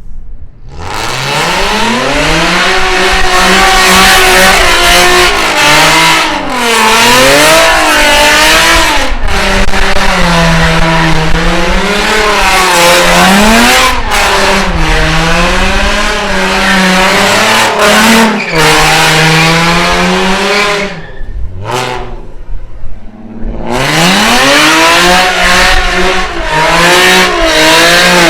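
Car engine held at high revs while the rear tyres spin and squeal in a burnout, the engine pitch wavering up and down as the throttle is worked. The engine drops off briefly about three quarters of the way through, then revs up again for a second burnout near the end.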